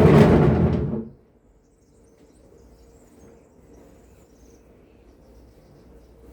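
A sudden loud household clatter at the start, fading out over about a second.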